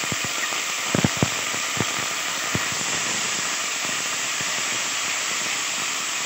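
Chopped garlic and dried fenugreek leaves sizzling steadily in hot oil in a pot. A few light knocks, about a second in and again near two and a half seconds, as a silicone spatula stirs against the pot.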